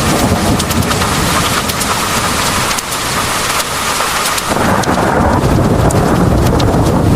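Heavy rain pouring steadily, with drops ticking sharply on a hard surface. Under it runs a low rumble of thunder that eases a few seconds in and swells back about four and a half seconds in.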